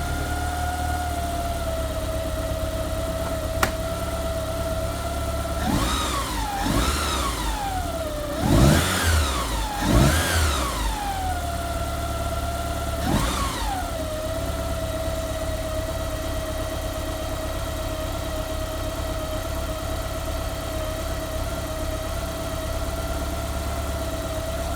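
Lancia Delta Integrale Evo2's turbocharged four-cylinder engine idling steadily, then revved in five short throttle blips that rise and fall in pitch, the loudest about halfway through, before settling back to idle.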